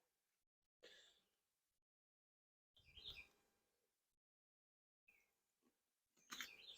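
Near silence, with faint, short bird chirps twice: about three seconds in and again near the end.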